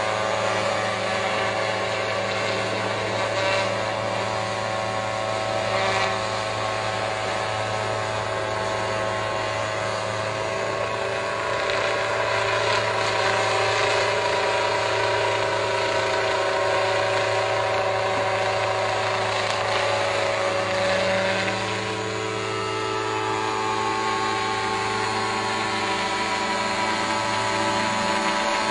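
Agricultural spraying drone's rotors and motors running with a steady multi-tone hum; the pitch shifts a little about two-thirds of the way through.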